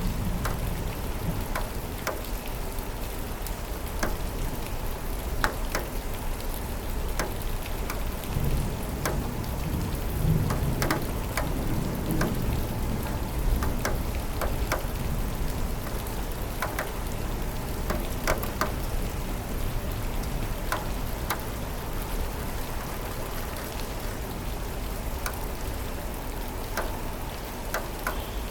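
Steady rain falling, with many single drops ticking sharply against a surface, and a low rumble of thunder swelling from about a third of the way in and fading out by the middle.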